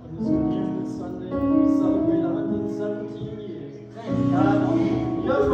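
Church music: held chords that change every second or so, with singing voices.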